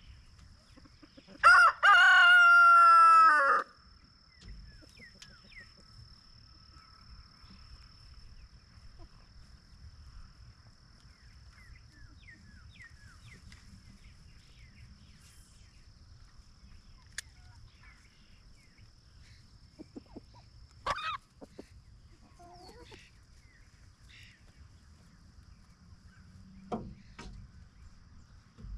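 A rooster crows once, loud and about two seconds long, shortly after the start. Afterwards only faint bird chirps and a couple of brief knocks, one about twenty-one seconds in and one near the end.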